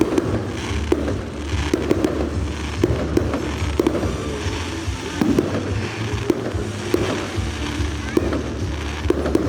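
Fireworks going off: frequent sharp bangs and pops at irregular intervals over a continuous low rumble.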